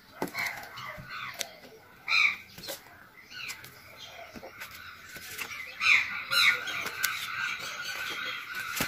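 Birds calling in short, repeated chirps, loudest about two seconds in and again around six seconds in. Light clicks and rustles of a paperback book being handled and opened run underneath.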